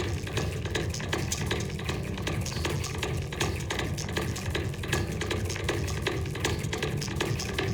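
Noisy goa trance track at 158 bpm: dense crackling clicks over a steady low rumble.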